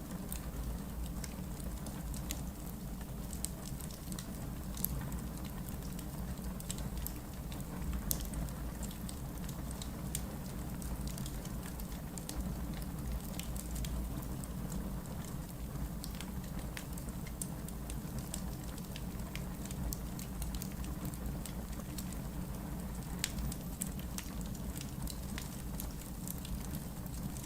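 Wood fire burning in a fireplace: a steady low rumble of the flames with frequent small sharp crackles and pops from the logs.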